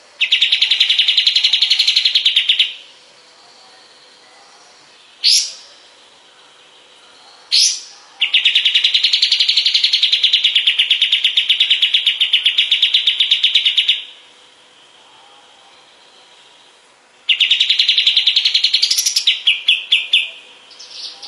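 Kapas tembak songbird singing long, rapid chattering trills. There are three runs of fast repeated notes, the second lasting about six seconds, with two short rising whistled notes between the first and second runs. The last run breaks up into slower, separate notes near the end.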